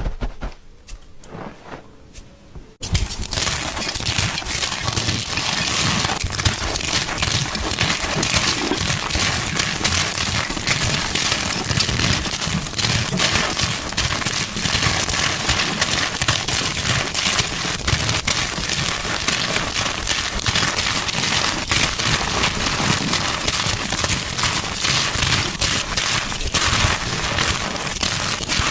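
Gym chalk being crushed: a dense, continuous crunching crackle that starts abruptly about three seconds in, after a quieter stretch of sparse crackles.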